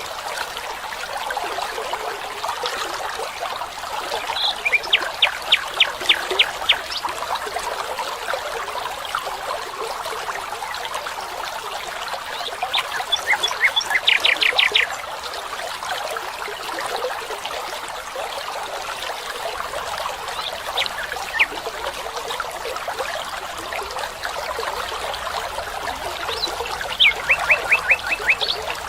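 Running water of a small stream or brook, trickling steadily, while a songbird sings a phrase of quick, evenly spaced high notes three times.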